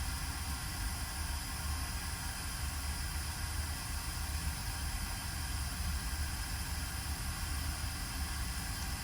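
Steady, unchanging hiss with a low rumble underneath, with no separate clicks or knocks.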